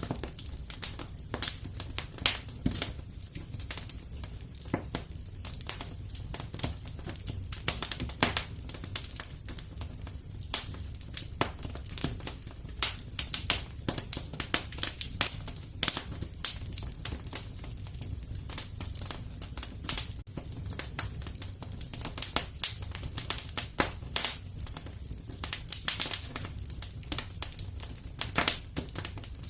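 Fire in a fireplace crackling, with irregular sharp pops and snaps several times a second over a steady low rumble.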